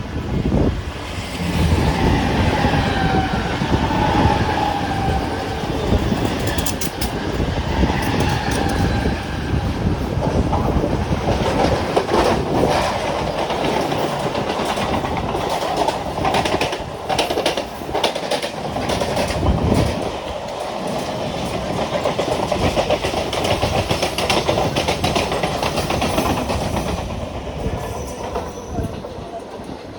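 Mumbai suburban local train, an electric multiple unit, running along the track with a continuous rumble. A wavering whine is heard in the first several seconds, and about twelve seconds in a rapid run of clicks and clatter comes from the wheels passing over rail joints. The sound eases slightly near the end.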